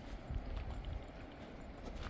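Walking footfalls at an uneven pace: dull low thuds with faint clicks.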